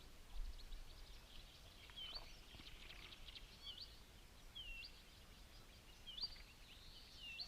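Faint birdsong: repeated short chirps and quick hooked, swooping calls, with a faint low rumble underneath.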